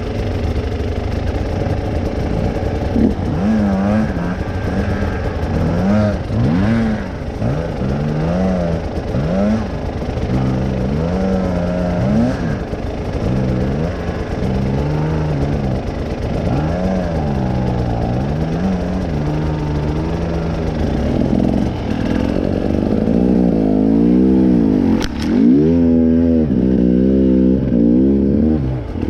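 Motorcycle engine revving up and down over and over as the throttle is worked, its pitch rising and falling every second or two. It gets louder and busier near the end, with one sharp knock shortly before.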